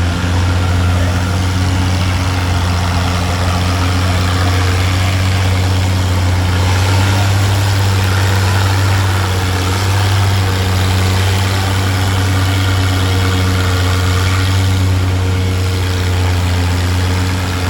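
Tractor engine idling steadily, a constant low drone with no revving.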